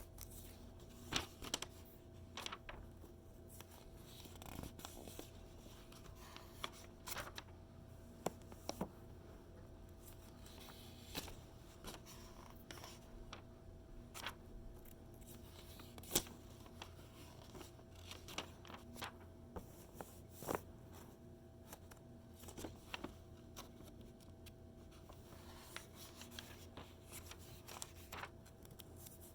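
Paper magazine pages being turned and handled: faint, irregular rustles and crinkles, with a sharper crackle every few seconds as a page is flipped over.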